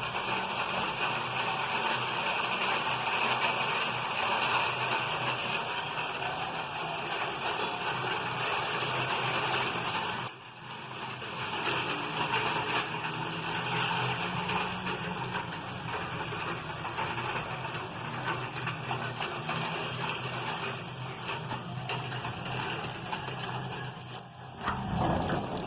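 Heavy rain falling steadily, a dense, even hiss that drops away briefly about ten seconds in.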